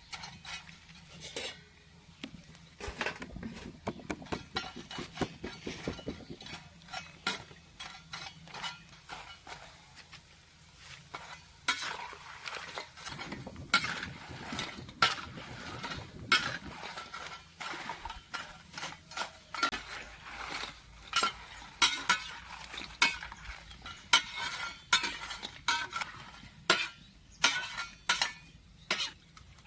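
A metal spatula repeatedly scraping and clinking against a wok, stirring kepok banana slices as they fry in oil, with a faint sizzle underneath.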